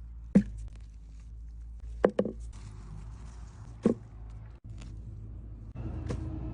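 Handling noises while radishes are being pulled: three short, sharp knocks about two seconds apart, the middle one doubled, with soft rustling between them.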